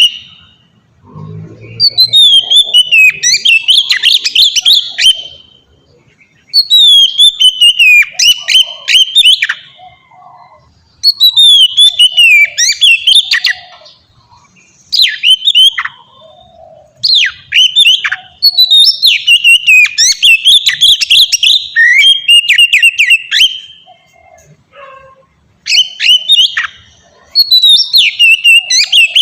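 Oriental magpie-robin (kacer) in full song: loud phrases of clear whistles and fast warbling notes, each a few seconds long, with short pauses between them.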